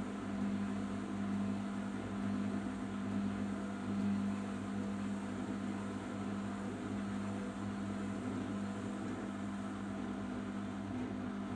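Arçelik 5083 washing machine running in the final rinse-and-spin stage of its cotton program, a steady low machine hum with slight swells.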